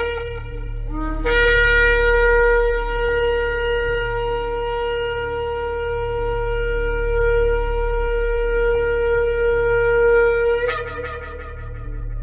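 Shofar blown in one long, steady blast of about nine seconds, starting about a second in and ending with a short upward jump in pitch before it stops. A steady low hum runs underneath.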